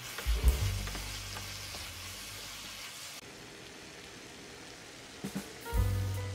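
Sliced zucchini and onion sizzling in oil and sauce in a frying pan as they are stirred, a steady frying hiss that softens about three seconds in.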